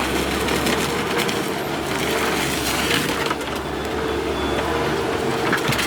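Forestry skidder with a hydraulic log crane (Welte W130K with Epsilon crane) running with a steady hum, with scattered cracks and creaks of wood as logs are gripped and moved.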